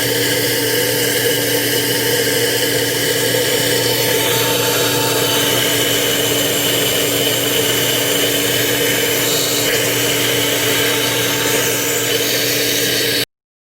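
A steady whirring machine sound, like a power tool or shop vacuum running, with a constant hum under it. It cuts off suddenly near the end.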